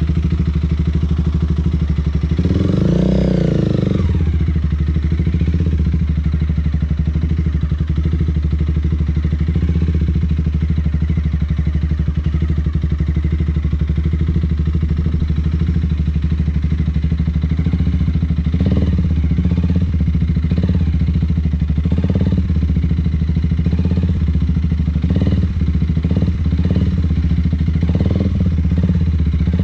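Motorcycle engine running at low speed, revving up as the bike pulls away about two seconds in, then holding a steady low-speed run. A series of short thuds joins it in the last third.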